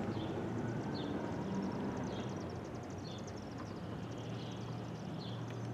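A bird chirping short, similar calls about once a second over a low, steady hum.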